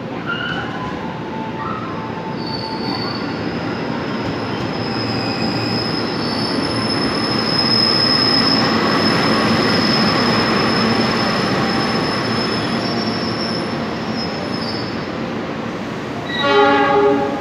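KRL Commuterline electric train pulling in along the platform and slowing to a stop: the running noise swells to a peak about halfway, with a high steady wheel squeal through most of it, then eases off. A brief loud pitched tone sounds near the end.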